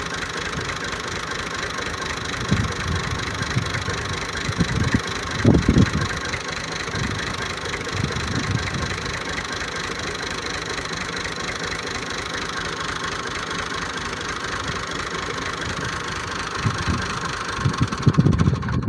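Tractor's diesel engine running steadily at low revs, with a few low thuds along the way.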